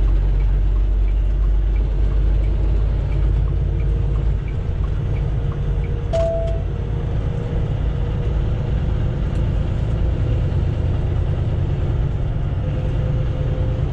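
Semi truck's diesel engine and road noise inside the cab while driving: a steady low rumble, with a short beep about six seconds in.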